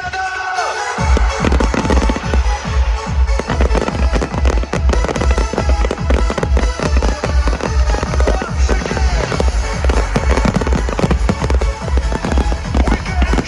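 A fireworks display, with rapid bangs and crackles, over loud dance music whose heavy bass beat kicks in about a second in.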